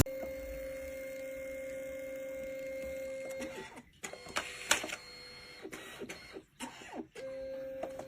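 A small machine running with a steady hum that stops about three and a half seconds in. Scattered clicks and rattles follow, then the hum starts again near the end.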